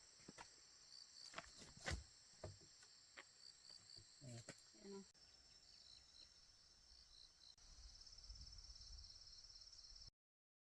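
Faint insects chirping outdoors: a steady high trill with rhythmic pulsed chirps, over a few scattered light knocks. The sound cuts off suddenly near the end.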